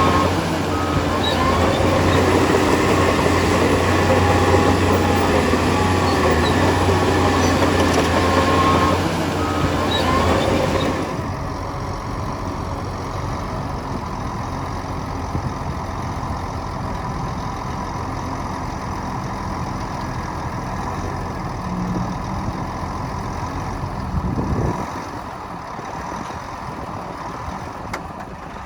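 Heavy diesel earthmoving machinery running at work, a low engine drone with short high squeaks over it. About eleven seconds in it drops suddenly to a quieter, steady engine sound.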